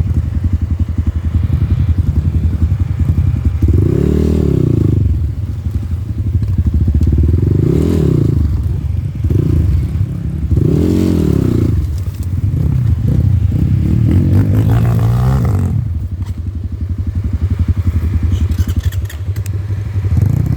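Off-road motorcycle engine running, its pitch rising and falling four times as the throttle is opened and closed, with steadier running in between.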